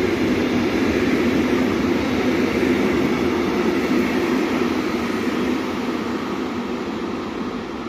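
Container freight train's flat wagons rolling past at speed, a steady rumble of wheels on the rails that fades as the last wagons go by near the end.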